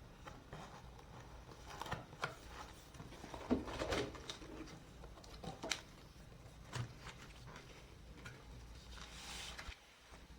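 Handling of a flood light's packaging: scattered knocks, clicks and rustles, the loudest a crinkly handling noise about three and a half seconds in, and a brief rustle of sliding near the end.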